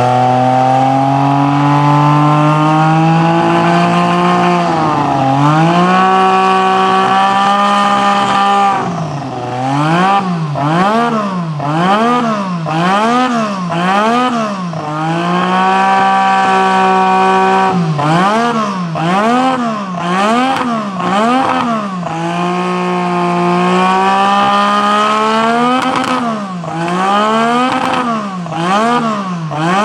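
Honda RA166E 1.5-litre twin-turbo V6 of a Williams Honda FW11 Formula 1 car, running stationary. The revs climb and hold steady for several seconds, then the throttle is blipped rhythmically, about once a second, in runs of blips separated by steady holds.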